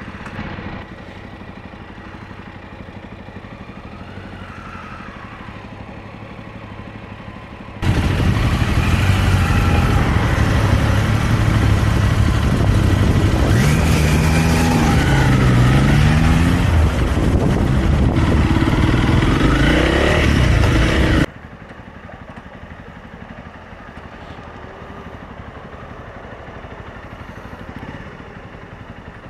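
Honda CRF250 Rally's single-cylinder engine running in slow city traffic. About eight seconds in, loud wind rush and engine revving rising and falling in pitch start abruptly, then stop abruptly about 21 seconds in, leaving the engine ticking over quietly in stopped traffic.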